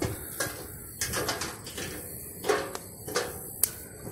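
A bird calling a few times in short, low-pitched calls, with one sharp click near the end.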